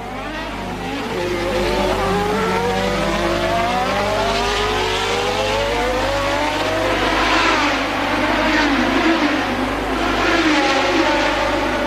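1988 Formula One race cars' engines accelerating through the gears on a street circuit, several overlapping engine notes rising one after another. The sound swells louder as cars pass, about two-thirds of the way in and again near the end.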